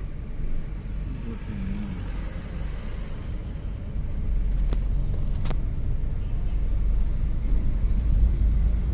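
Street traffic: motor vehicles running and passing, a low rumble that gets louder about four seconds in, with a couple of sharp clicks around the middle.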